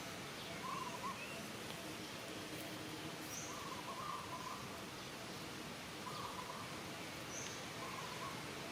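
Steady outdoor background hiss with short warbling animal calls every couple of seconds, and a few brief high chirps.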